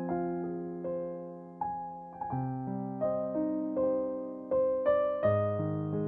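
Slow piano music: single notes and chords struck one after another, each ringing on and fading.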